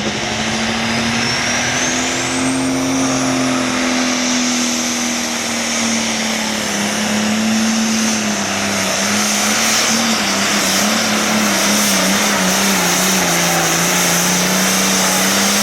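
Super Farm class pulling tractor's turbocharged diesel engine running flat out under load on a pull. A high turbo whistle climbs in pitch over the first few seconds and then holds. The engine note wavers and sags a little near the end.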